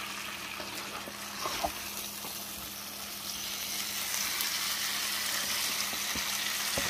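Potatoes, bell peppers and onions sizzling in butter in a nonstick pan as they are flipped with a spatula, with a few light knocks of the spatula on the pan. The sizzle grows a little louder about halfway through.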